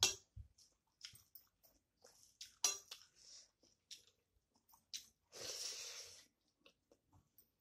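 Close-up mouth sounds of a person chewing rice and chicken curry eaten by hand: soft wet chewing and lip smacks with scattered sharp clicks. A longer hissing sound comes about five and a half seconds in.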